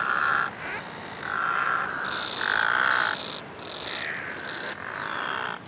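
Nesting seabird colony of brown noddies and sooty terns calling: a run of overlapping calls, each under a second long, some gliding down in pitch.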